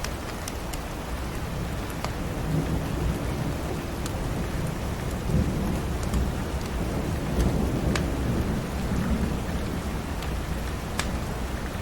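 Steady rain with a long low rumble of thunder that swells through the middle and eases off near the end, and sharp crackles of a wood fire scattered throughout.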